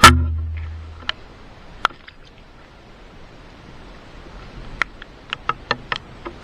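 A single heavy knock with a low boom that fades over about a second, followed by scattered light clicks that come more often near the end.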